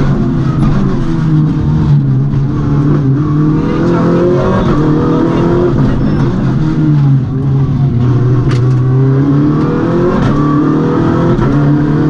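MINI rally car's engine at full stage pace, heard from inside the cabin, revs rising and falling again and again through the gears. It briefly eases off about seven seconds in.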